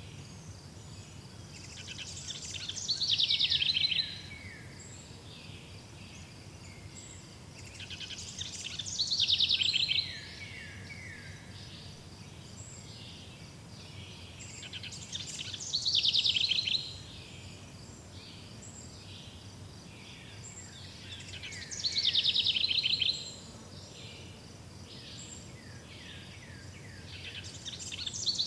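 A songbird singing the same short song over and over, about every six seconds: each song is a quick run of high notes sliding downward, lasting under two seconds. Between songs a faint, steady high chirring continues over a low forest background.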